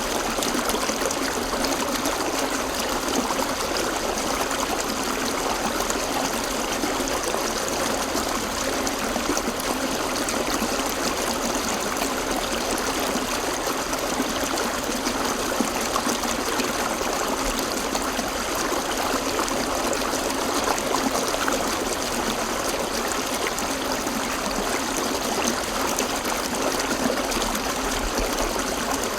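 River water flowing steadily over and between rocks, a continuous rushing and trickling.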